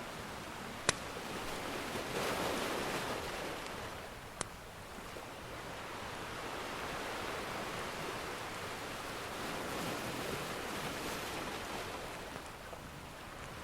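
Ocean surf washing in slow swells, with two sharp pops from a crackling wood fire, one about a second in and one at about four and a half seconds.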